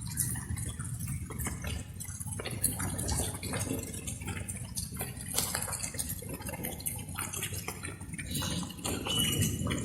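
Light rain, with many separate drops dripping and splashing at an uneven pace over a steady low rumble. A brief high whistle comes in near the end.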